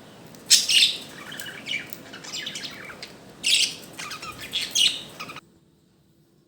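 Budgerigars chirping and chattering in a string of quick, high calls over a steady hiss; it all cuts off suddenly near the end.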